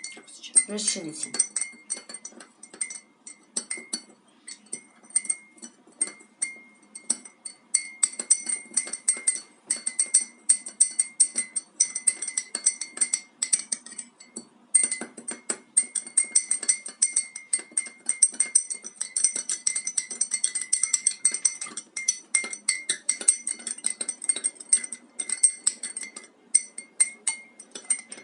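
A teaspoon stirring sugar into cold water in a mug, clinking rapidly and continuously against the mug's sides with a ringing tone. There is a short break about halfway through.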